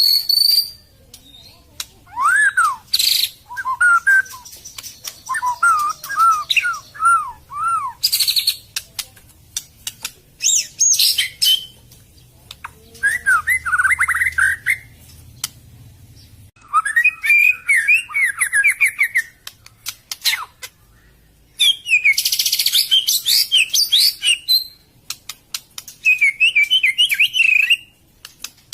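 White-rumped shama (murai batu) singing: separate phrases of repeated looping whistled notes, mixed with short bursts of rapid high notes and clicks, with short pauses between phrases.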